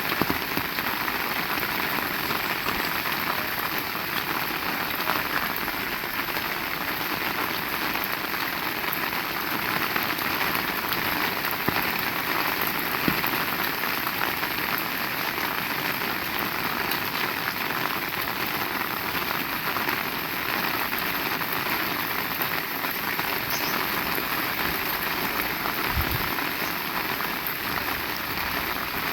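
Heavy rain falling steadily, a dense even hiss of drops striking surfaces with scattered individual drop impacts.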